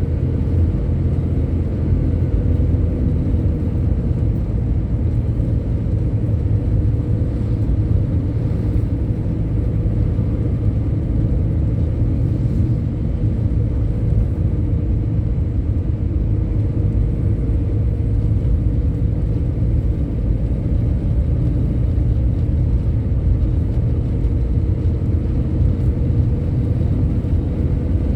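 Motor vehicle running at a steady speed: a constant low engine and road rumble with a faint steady hum, unchanging throughout.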